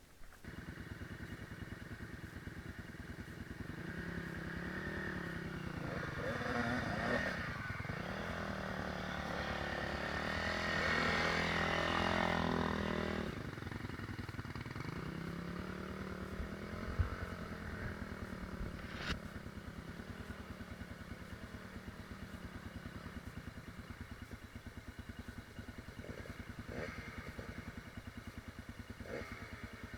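Enduro dirt bike engine running; the revs climb and hold for several seconds, drop off about thirteen seconds in, then settle to a steady idle.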